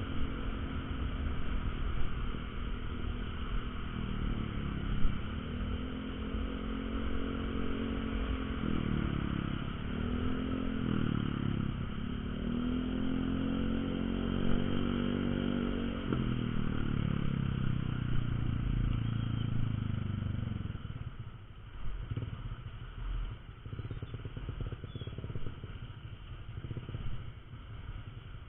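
Honda Verza 150's single-cylinder engine running under way, its pitch rising and falling several times as the rider accelerates and changes gear. It eases off after about three-quarters of the time, leaving lower road and wind noise.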